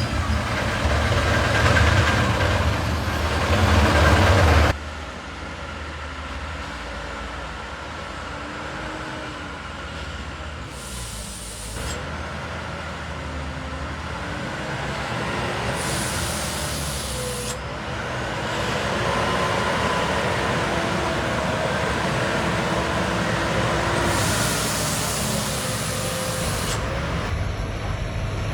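Heavy trucks running, the engine note wavering up and down, with three short bursts of high hissing. The sound cuts abruptly about a fifth of the way in.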